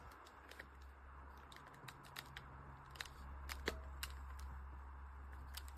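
Faint scattered clicks and light taps, irregularly spaced, over a low steady hum.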